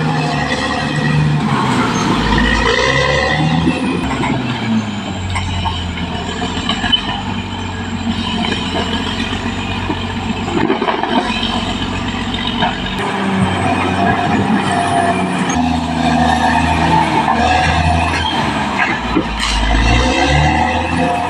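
Caterpillar D6R XL bulldozer's diesel engine running under working load. Its note shifts several times as the load changes.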